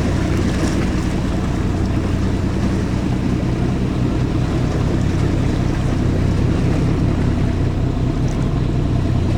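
Ship's engine running steadily, a low even hum over a wash of noise.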